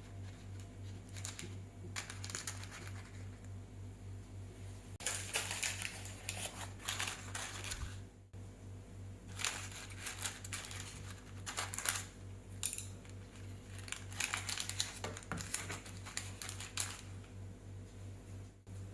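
Kitchen handling sounds: light clicks, taps and rustling as food and containers are handled, in three bursts of a few seconds each, over a steady low hum.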